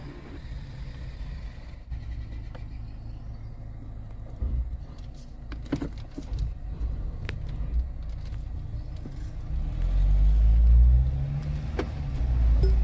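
Mahindra Scorpio N engine and running gear heard from inside the cabin as the SUV reverses slowly, a steady low rumble. About ten seconds in the engine swells louder, its pitch rising and then falling. A few light clicks are heard along the way.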